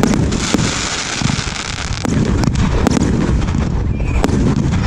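Large 1.3G compound firework cake firing, with a quick irregular run of sharp shot bursts about every half second. Crackle and a continuous low rumble sit between the shots.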